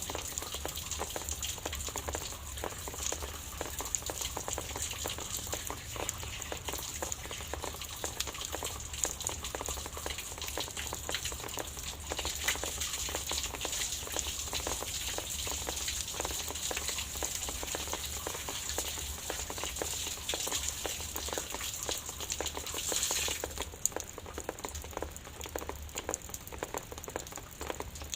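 Light drizzle pattering steadily, a dense spread of small drops, with a brief louder rush about two-thirds of the way through.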